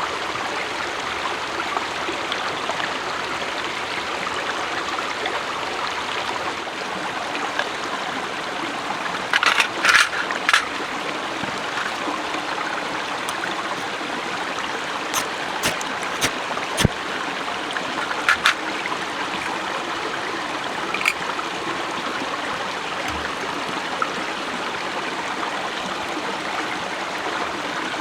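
Steady rushing of flowing water, like a stream, with a few sharp clicks and knocks now and then.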